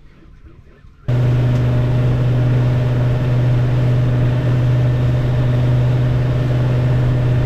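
Boat engine running steadily with a loud, even hum that cuts in abruptly about a second in.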